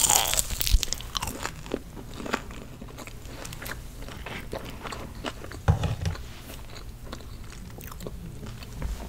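Chewing and biting of crunchy Chick-fil-A food right at the microphone: many small crunches and wet mouth clicks, loudest in the first second.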